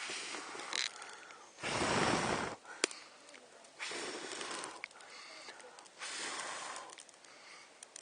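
A person blowing in long breaths on smouldering damp kindling to fan it into flame, one blow about every two seconds, the second one loudest. A couple of sharp clicks sound between the blows.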